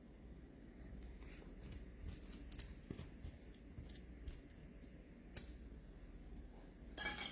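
Trading cards being handled: faint scattered clicks and soft rustles of cards slid and stacked, with a brief louder rustle near the end.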